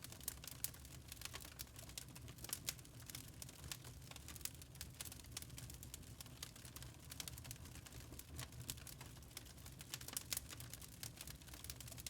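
Log fire crackling in a fireplace: irregular sharp snaps and pops, some louder than others, over a low steady rumble.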